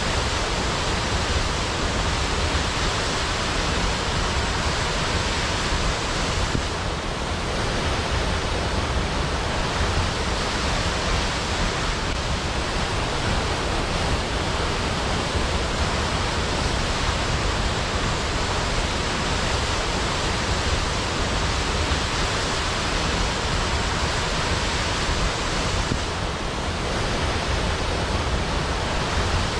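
Waterfall rushing: a steady, even hiss of falling water with no breaks, easing very slightly twice.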